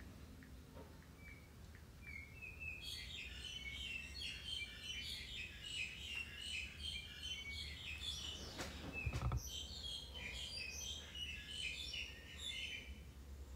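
Faint twittering of small birds, many short high chirps overlapping, starting about three seconds in. A dull thump about nine seconds in.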